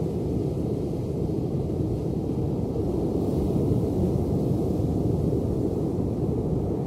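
Ocean waves: a steady, deep rush of surf that swells slightly around the middle.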